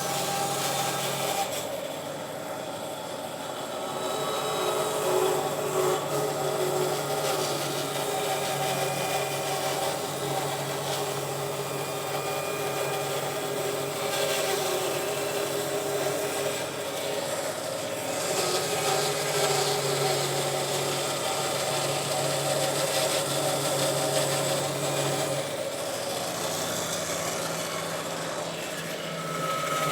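Bandsaw running steadily with an even hum, its blade ripping a black walnut board lengthwise in a straightening cut.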